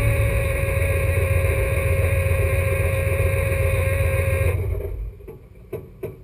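Alfa Romeo GTA's twin-cam four-cylinder engine idling steadily, heard from inside the cabin, then switched off about four and a half seconds in. A few faint, irregular clicks follow.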